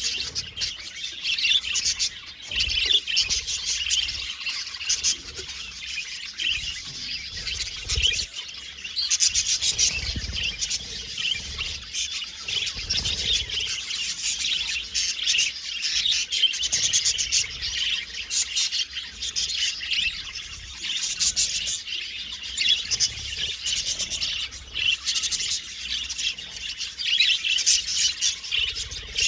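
Budgies (budgerigars) chirping and warbling together: a continuous, busy chatter of fast trills, clicks and short whistles, with scratchy rasping notes mixed in.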